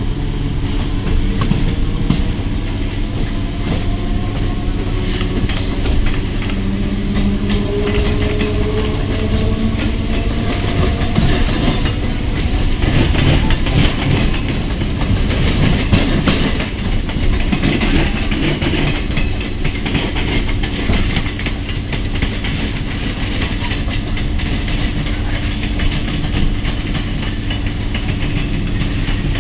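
Electric multiple unit local train running at speed, heard from its open doorway: steady wheel-on-rail rumble and clickety-clack over rail joints, with a rising whine in the first several seconds. There is a heavier clatter about halfway through as the wheels cross the points.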